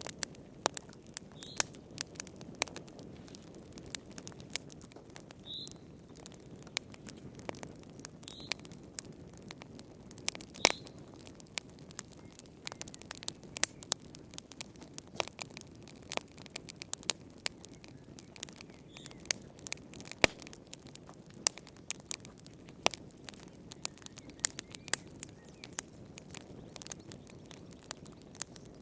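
Wood fire crackling in a fireplace: irregular sharp pops and snaps over a soft, steady low rumble of the flames.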